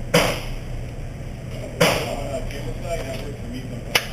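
Three single gunshots on a shooting range, roughly two seconds apart, each a sharp crack with a short fading tail.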